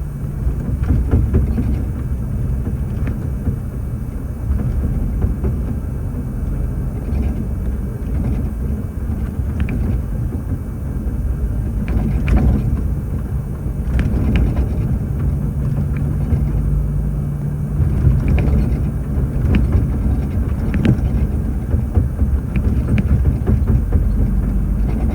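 Heavy truck, a natural-gas (CNG) tractor, driving: a steady low engine and road rumble whose pitch shifts a little about two-thirds of the way through, with scattered short knocks and rattles.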